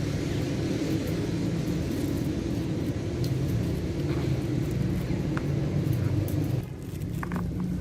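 Steady low rumble, easing slightly near the end, with a few faint clicks.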